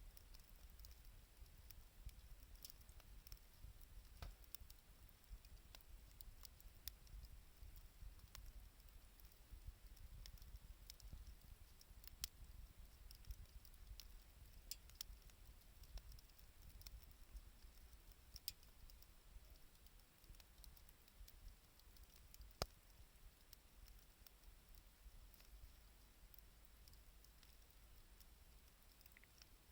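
Wood campfire crackling faintly: scattered small snaps and pops, with one louder sharp pop about three-quarters of the way through, over a low rumble.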